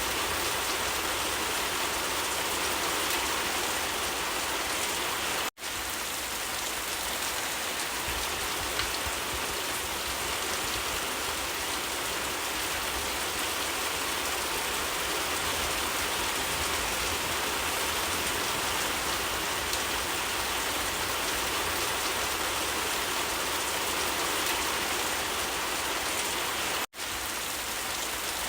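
Steady rain falling, an even dense hiss of drops with no breaks in intensity. It cuts out for an instant twice, about five seconds in and near the end.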